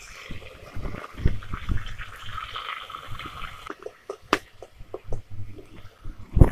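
Ginger-garlic paste sizzling in hot mustard oil in a steel kadai, the sizzle dying away a little over halfway through. Then a long-handled spatula stirs the paste, scraping and knocking against the steel pan, with a louder knock near the end.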